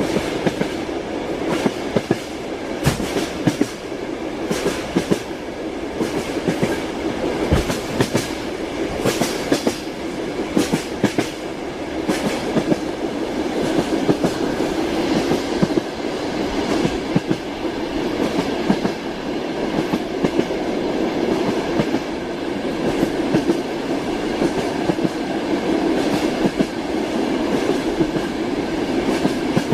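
Train wheels clattering on the rails of a moving train, heard from inside a railway carriage: a steady rolling rumble with frequent irregular sharp clicks and knocks.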